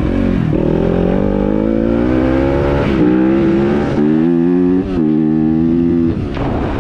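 Dirt bike engine under way, its pitch climbing as it accelerates and then dropping back sharply about four times as the throttle and gears are worked.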